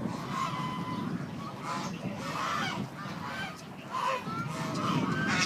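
Waterfowl calling: a run of short, repeated honks, several birds at once, over a low steady rumble.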